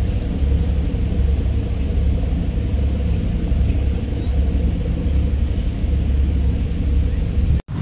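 Wind buffeting the microphone, a heavy uneven low rumble, over a steady low hum. It cuts off abruptly near the end.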